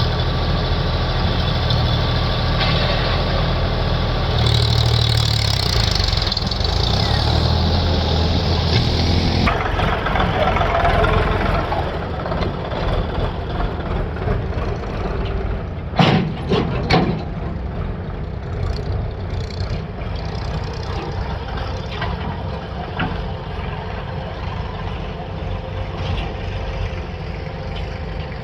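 Diesel engine of heavy farm or construction machinery running steadily, with a brief cluster of sharp knocks a little past halfway.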